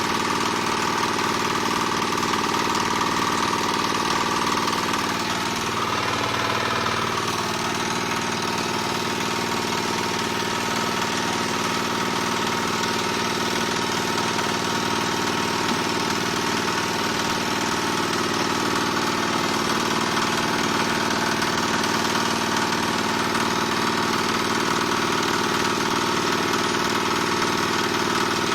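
Small diesel engine running steadily, driving a single-screw palm oil press. Its pitch wavers briefly about six seconds in, then settles.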